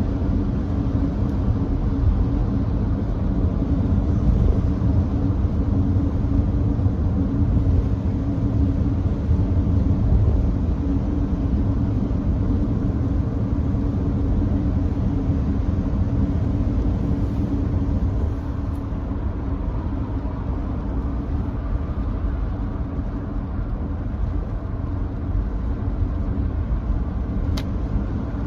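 Steady low rumble of tyre and road noise heard inside the cabin of a Nissan Note e-POWER cruising at constant speed on a wet expressway. It eases off slightly about two-thirds of the way through.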